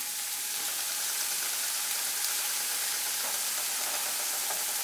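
Cubed potato and red onion frying in olive oil in a non-stick frying pan: a steady, even sizzle.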